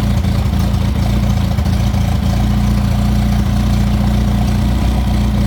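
Morris Marina 1.3's four-cylinder A-Series petrol engine, mounted bare in a test rig, idling steadily at a constant speed, fully warmed up after about half an hour of running.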